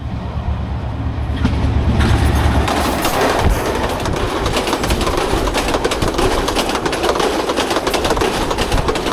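Passenger train passing at close range: a diesel locomotive's engine hums low at first, then from about two seconds in the coaches roll by with a steady rumble and clatter of wheels on the rails.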